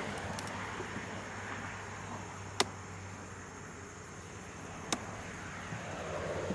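Two sharp clicks about two seconds apart over a steady low hum: a wooden beehive frame being worked loose and lifted out of the hive box.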